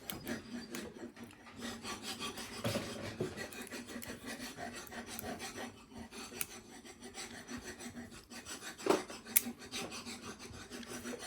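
Hand scraping and rubbing on a part, an irregular run of scratchy strokes over a faint steady hum, with two sharp knocks about nine seconds in.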